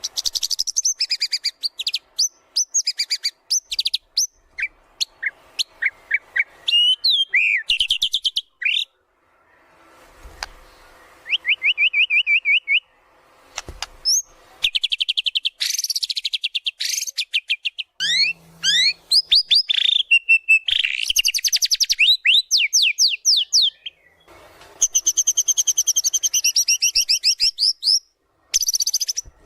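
White-rumped shama (murai batu) singing a varied, loud song: phrases of rapid repeated notes and quick gliding whistles, broken by several short pauses.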